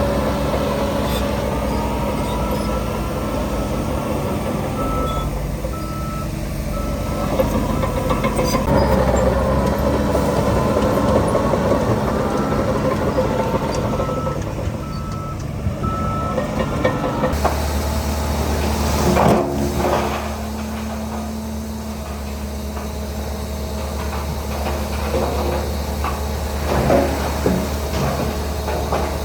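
Heavy diesel machinery running, with a vehicle's reversing alarm beeping in two spells. Partway through, the sound changes to a steady low engine drone, broken by a short burst of noise a couple of seconds later.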